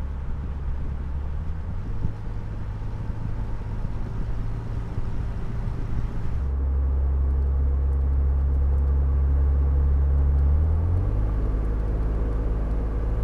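Toyota Tacoma 4.0L V6 running through an MBRP Installer Series 2.5-inch single turn-down cat-back exhaust with its smaller muffler, a steady low exhaust note. The note shifts in pitch a few times, gets louder and deeper about six seconds in, and rises briefly near the end.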